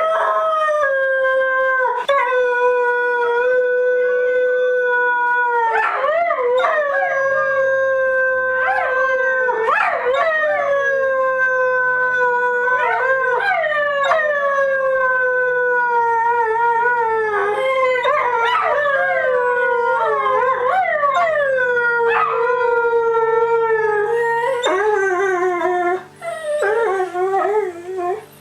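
Dog howling: long drawn-out howls, each held on a steady pitch for a few seconds and then breaking off with a short slide, one after another. Near the end the howls turn shorter and choppier and fade out.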